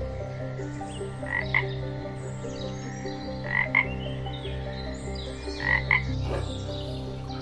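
Frogs croaking: a call of two quick croaks, repeated three times about two seconds apart, over a steady low drone of other calling frogs.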